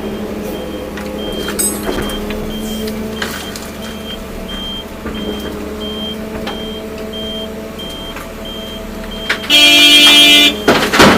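Heavy diesel machinery running steadily, with a reversing alarm beeping about one and a half times a second. Near the end a horn sounds once for about a second, the loudest thing here, followed by a sharp clank.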